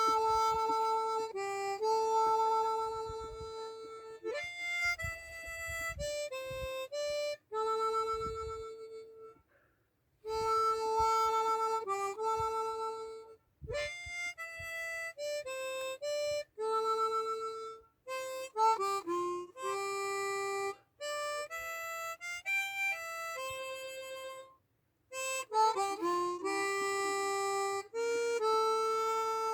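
Solo harmonica playing a slow melody, held notes and short runs in phrases broken by brief pauses.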